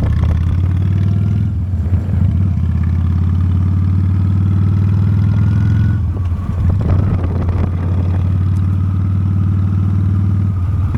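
Honda Steed V-twin motorcycle engine running steadily, with a rougher, clattering patch about six seconds in.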